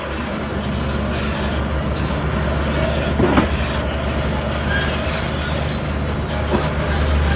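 Heavy diesel construction machinery running steadily, with a low engine hum and a couple of short metallic knocks.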